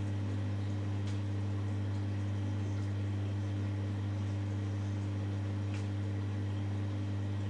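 Hoover Dynamic Next washing machine's drain pump running with a steady low hum, pumping out the wash water before the first rinse.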